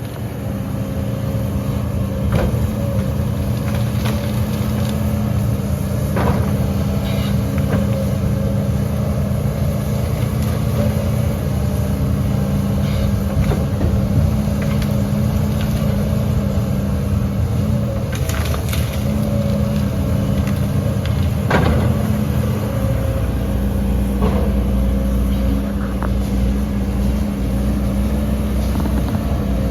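Heavy diesel earthmoving machinery running steadily, with scattered sharp knocks; the low rumble grows heavier about three-quarters of the way through.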